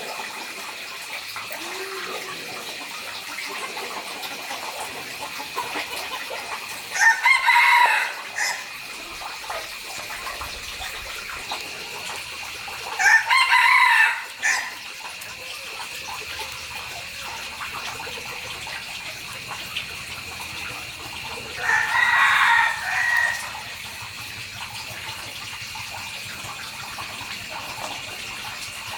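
Rooster crowing three times, each crow about a second and a half long, over a steady high-pitched background drone.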